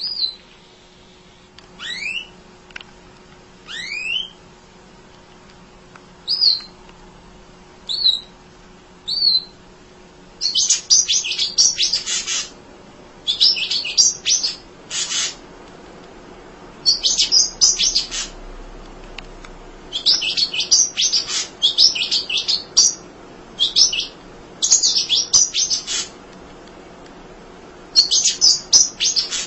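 A munia (emprit) singing. For the first ten seconds it gives single thin rising whistles about every second and a half. Then it breaks into fast, high, chattering twitters in repeated bursts of one to two seconds.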